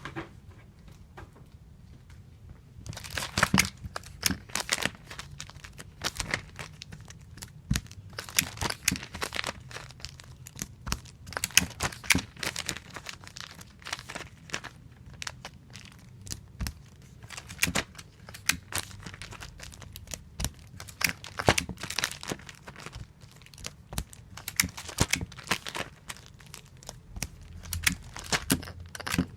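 Adhesive tape pulled off a tape dispenser and torn, over and over, while comic books are taped. After about three quiet seconds it becomes a run of sharp rips and crackles in irregular bunches.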